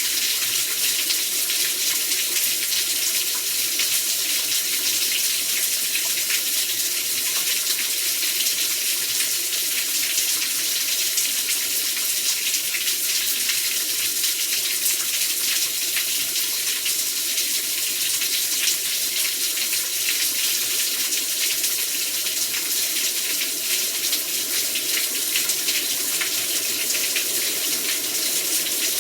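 Heavy rain pouring steadily: a dense, even hiss with a fine patter of drops through it.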